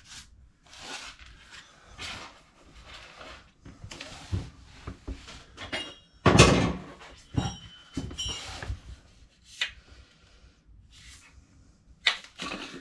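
Metal parts and tools being handled: scattered knocks and rustles, a sharp clank about six seconds in with a short metallic ring, and another burst of clatter near the end.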